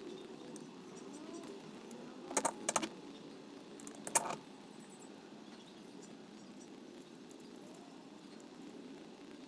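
Metal parts clinking as the halves of a lawn edger's rear wheel are put together with nuts and bolts: two close clinks about two and a half seconds in and another just after four seconds, over steady background noise.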